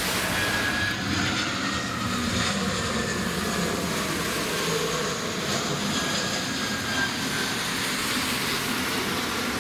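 Airliner jet engines running steadily, a faint turbine whine over a steady hiss.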